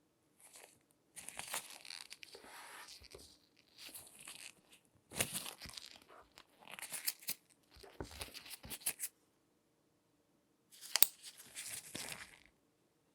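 Close-miked handling sounds from gloved hands on a shoe: bursts of scratchy rubbing and crinkling with a few sharp clicks, stopping briefly about three-quarters of the way through.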